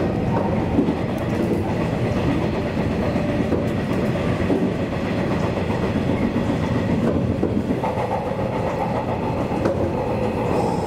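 JR 185 series electric train running, heard from on board: steady running noise with the wheels clacking over rail joints and points.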